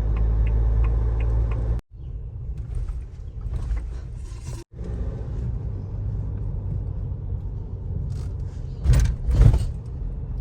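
Car rumbling along the road, heard from inside. A quick steady ticking runs through the first two seconds. The sound cuts out for an instant twice, and two loud thumps come near the end.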